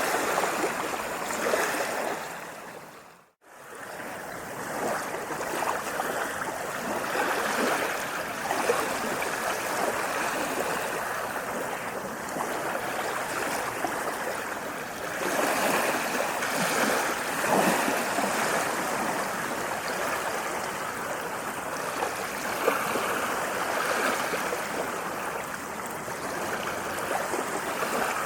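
Sea waves washing and breaking, a continuous rush of water. A little over three seconds in it fades quickly to silence and comes straight back.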